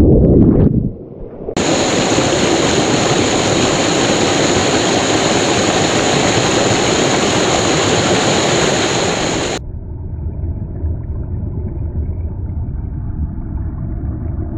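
A steady rush of flowing stream water starts about a second and a half in and cuts off abruptly near the ten-second mark. It gives way to a duller, muffled low rumble.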